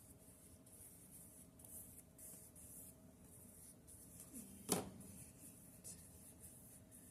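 Gesso being spread across a paper journal page in faint, irregular strokes, each a soft high hiss. One sharp tap a bit past the middle.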